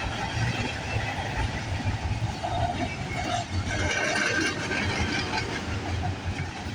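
Freight cars of a CP Rail freight train rolling past at track speed: a steady rumble of steel wheels on the rails.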